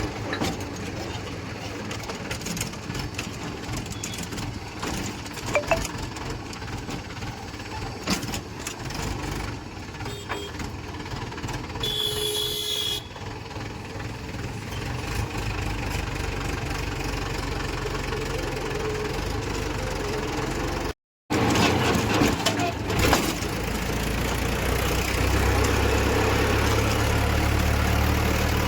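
Diesel engine of a JCB 2DX backhoe loader running while it tows a heavily loaded trolley. A short higher tone sounds about twelve seconds in. The sound drops out briefly about two-thirds of the way through, and the engine then runs louder and steadier.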